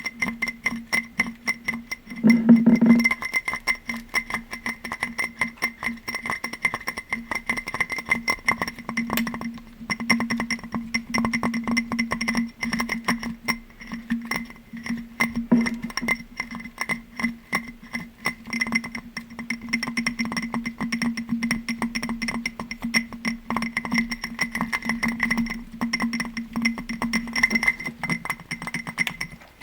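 Rapid tapping on a glass object, each tap setting the glass ringing, so that a steady ringing tone carries under the clicks.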